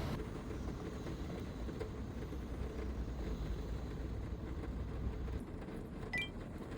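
Muffled rain heard inside a van, a low steady rumble on the roof that eases about five seconds in, with one brief high ringing clink near the end.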